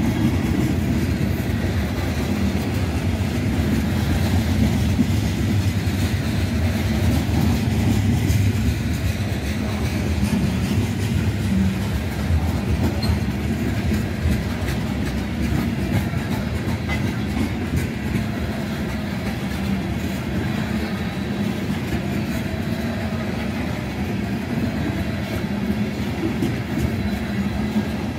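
Freight train of tank cars rolling past: a steady rumble of steel wheels on rail with light clacking.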